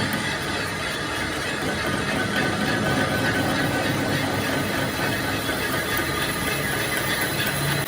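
Metalworking machinery running steadily in a repair shop, a continuous mechanical noise with a faint high squeal over it.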